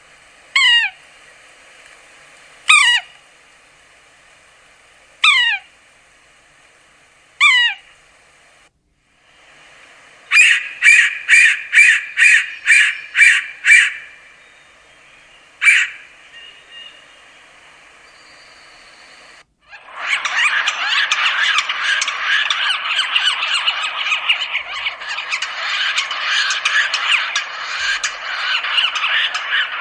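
Yellow-bellied sapsucker calls: four nasal mewing calls, each falling steeply in pitch, about two and a half seconds apart. Then comes a quick series of about eight short calls, a lone call, and in the last ten seconds a dense run of overlapping squealing calls.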